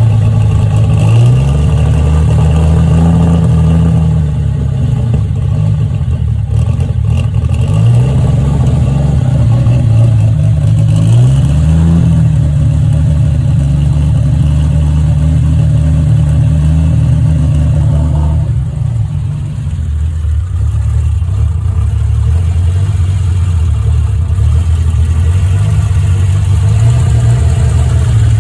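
Freshly rebuilt Triumph TR6 straight-six engine running on its first start. It runs steadily and is revved up briefly several times, then settles back down each time.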